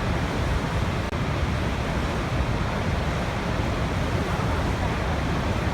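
Waterfall: a steady rush of falling water, heaviest in the low end, with a momentary dropout about a second in.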